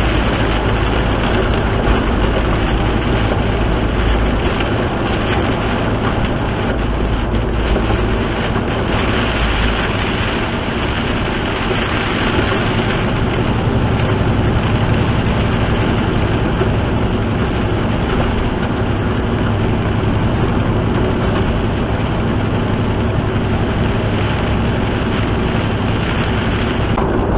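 Semi truck driving at highway speed, heard from inside the cab: the diesel engine runs steadily under the hiss of tyres on a wet, slushy road.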